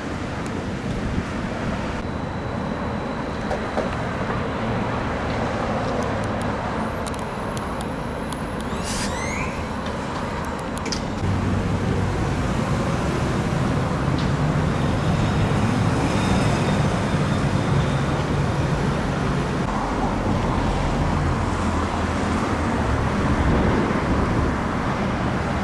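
Steady noise of heavy wind and rain in a severe thunderstorm, mixed with road traffic, with vehicles running on a wet road; it grows louder about eleven seconds in.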